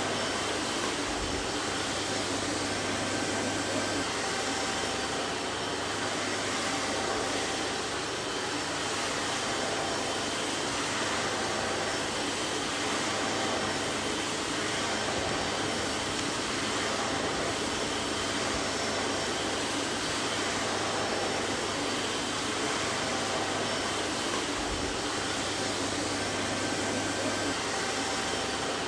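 Vacuum cleaner running continuously: a steady, even whooshing hiss of the motor and airflow with a low hum under it.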